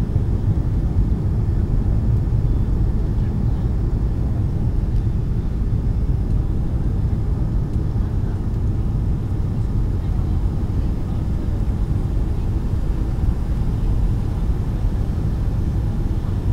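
Steady low roar inside the cabin of a Boeing 757-200 airliner in flight: engine and airflow noise, with no distinct events.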